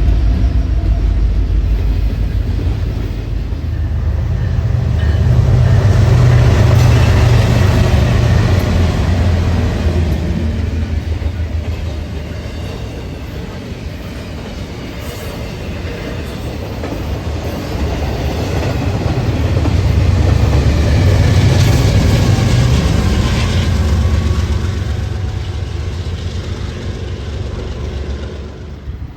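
Train passing on the railway, a loud steady rumble of wheels on rail that swells twice, about six seconds in and again around twenty seconds in. Faint high tones from the wheels ride on top during the swells.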